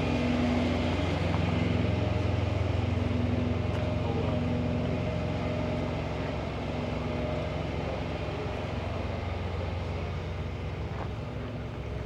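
A truck's diesel engine idling with a steady low hum, slowly getting quieter.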